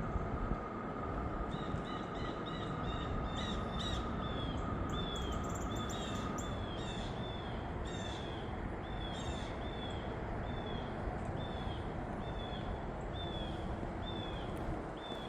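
A bird calling over and over, a short downward-slurred note repeated about twice a second, over steady outdoor background noise.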